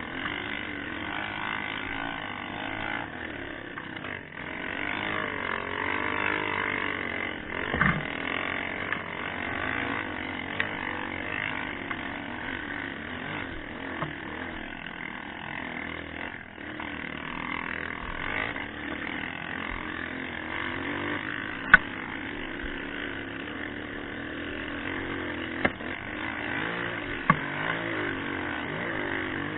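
Off-road motorcycle engine running, its pitch rising and falling with the throttle, with a few sharp knocks.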